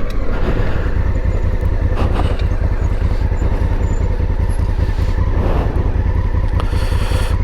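Honda Africa Twin DCT's parallel-twin engine running steadily on the move, with heavy wind rumble on the microphone.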